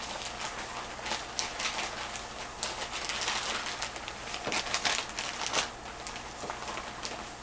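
Chicken coated in self-rising flour deep-frying in hot oil: steady sizzling with dense crackling and popping, and a few louder pops around the middle.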